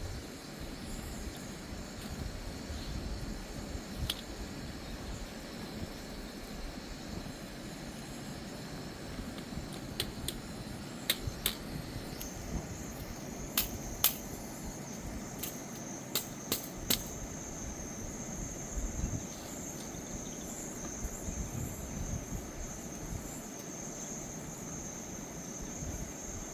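Steady outdoor noise with a low rumble. About ten seconds in, a quick run of sharp clicks or knocks starts and lasts some seven seconds. From about twelve seconds on, a thin, steady high-pitched whine joins it.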